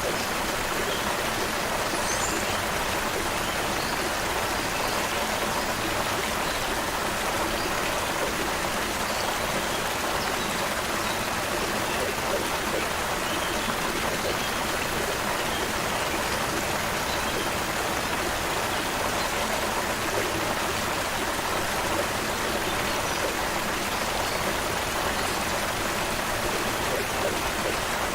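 Small stream or creek flowing over stones: a steady, even rush of running water.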